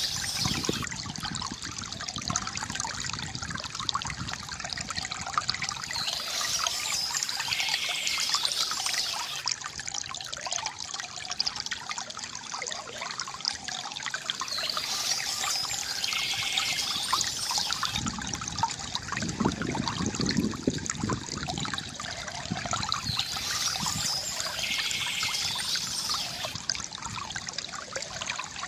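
Water trickling and gurgling steadily from a bamboo fountain, with a brighter, higher sound swelling about every nine seconds and a lower rush of water a little past the middle.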